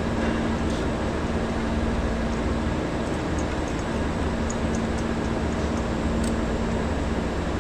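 Steady machinery hum with a constant low tone, with a few faint small metallic clicks over it.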